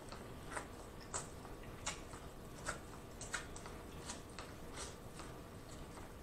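Corn on the cob being bitten and chewed: a string of crisp, sharp clicks as kernels are bitten off the cob, roughly one every half to one second.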